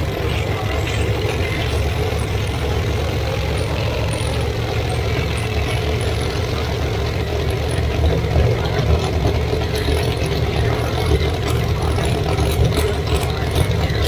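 Drag race car engines idling steadily with a low, loud running sound. Sharper pops come in from about eight seconds in.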